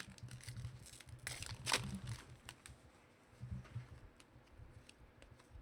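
Trading cards and their packaging being handled: faint rustling and light clicks, with a few sharper clicks about a second and a half in, over a low steady hum.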